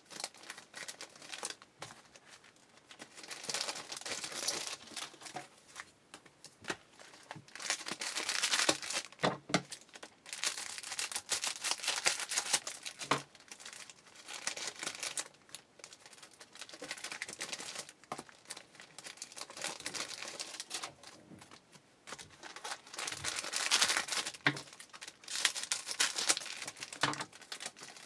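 Trading-card pack wrappers being crinkled and torn open by hand, in repeated bouts of crackling a few seconds long, with a few sharp clicks and knocks between them.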